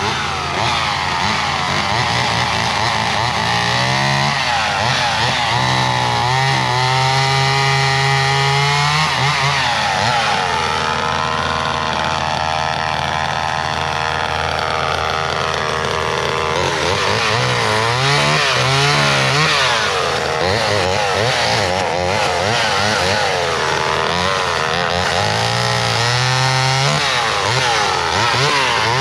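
Vintage two-stroke chainsaw running hard while cutting wood, its engine pitch rising and falling again and again as it revs and loads in the cut, with a longer steady stretch in the middle.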